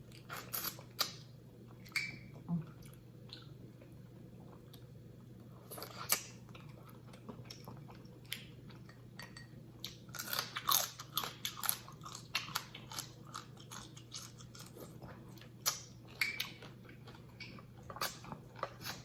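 Close-miked mouth sounds of a person eating a spicy seafood boil: chewing and biting with irregular wet clicks and crunches, thickest about ten to thirteen seconds in.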